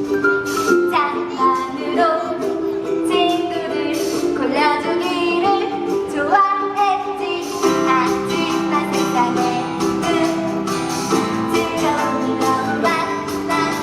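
A musical-theatre song: a woman's voice singing a melody with gliding notes over an instrumental backing with plucked strings.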